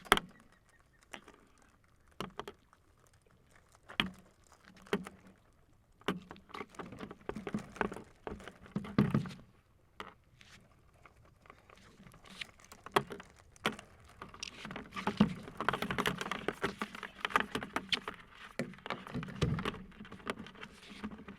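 Live Florida blue crabs clattering and scrabbling against a wire crab trap as they are handled: irregular clicks, knocks and scrapes, busiest in the middle and over the second half.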